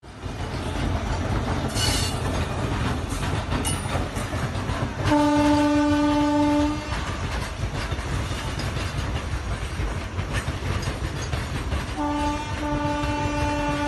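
Double-stack container freight train rolling past with a steady low rumble of wheels on rail. The locomotive horn sounds one single-pitched blast about five seconds in lasting under two seconds, then a short toot and a longer blast near the end.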